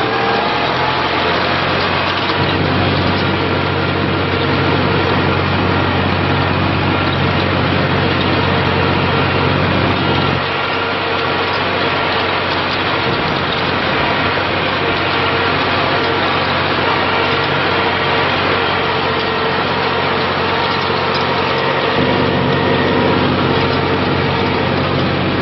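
Tractor engine running steadily, its tone shifting a few times.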